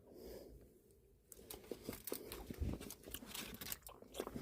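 Faint chewing and mouth sounds of a person eating cooked tomatoes, with many small clicks from about a second in.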